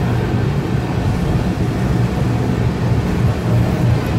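Steady low rumble of a moving train, heard from inside a heritage passenger carriage.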